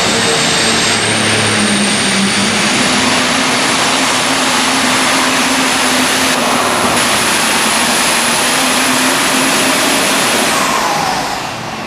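Super stock 4x4 diesel pickup truck at full throttle on a pull, a loud steady engine with a high turbo whistle that climbs slowly over the first few seconds and then holds. Near the end the whistle drops away and the engine falls off as the throttle is let off.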